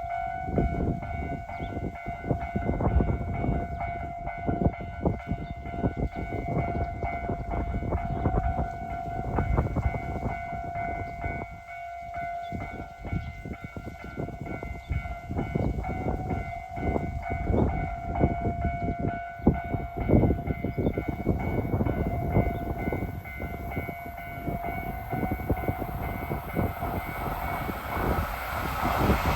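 A steady ringing tone holds over a constant clatter as a JR Hokkaido 789 series electric express train approaches. In the last second or two the train's rushing noise swells up loudly.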